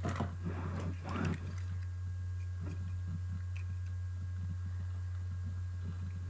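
Steady low hum of a car heard from inside the cabin, with faint light ticks and a few short rustles in the first second and a half.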